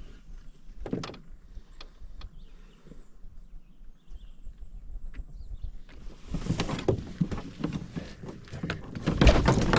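Canoe being paddled: a few scattered knocks of the paddle against the hull, then from about six seconds in a louder stretch of rustling, knocking and low thumps against the canoe.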